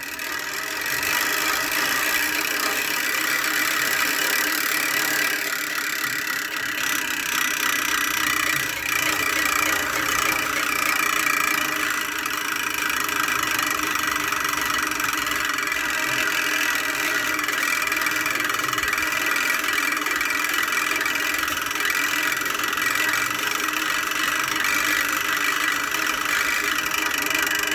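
Homemade hand-cranked bicycle 'engine' spun at full throttle: a steady mechanical whir with a rattle, picking up about a second in and then holding steady.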